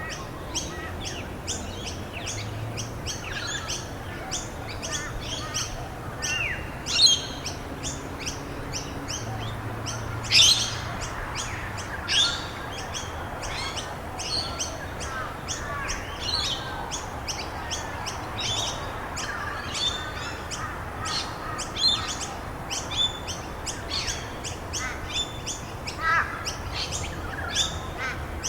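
Songbirds chirping and calling continuously, many short calls overlapping, with a few louder downward-sweeping calls about a third of the way in. Beneath them runs a steady hiss of rain.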